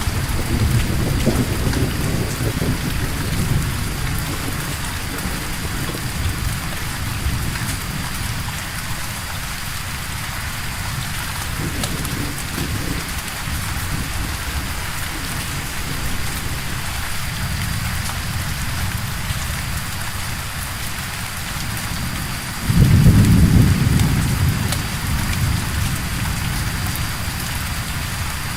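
Steady rain falling. Low thunder rumbles away in the first few seconds, and a louder thunder clap breaks in suddenly near the end and fades.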